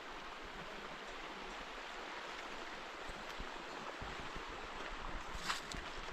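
Steady rush of running water, even and unbroken, with a short sharp knock about five and a half seconds in.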